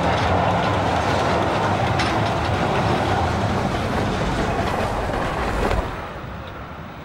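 Ce 6/6 rod-driven electric locomotive passing close with a train: steady running noise with a few sharp clicks from the wheels. About six seconds in, the noise drops to a quieter, more distant level.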